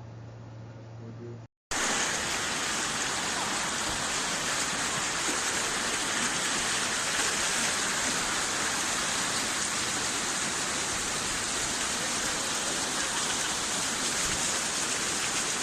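Steady, even rushing of water that starts after a brief cut about a second and a half in. Before the cut there is only a faint low hum.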